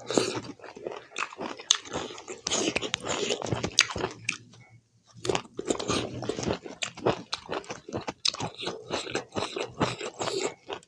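Close-miked mukbang chewing and biting: a person eating a mouthful of pork curry and rice, with rapid, irregular wet smacks and crunchy clicks. There is a brief pause a little under halfway through.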